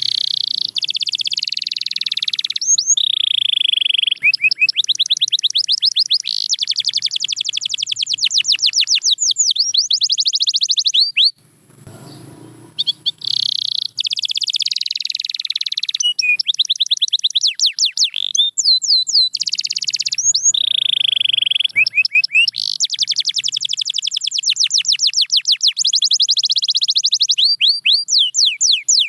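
Domestic canary singing a long song of rapid trills and rolls of fast repeated notes. Its song breaks off for about two seconds midway, then resumes.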